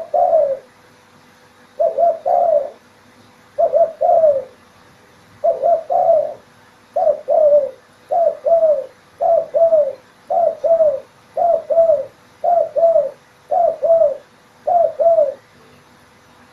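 Spotted dove (terkukur) cooing over and over: a run of about thirteen short, low phrases of two or three notes, each curving down slightly, about one a second, stopping about a second before the end.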